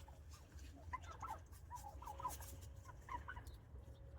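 Flock of wild turkeys giving many short, soft, whiny calls and clucks, scattered and overlapping, while foraging.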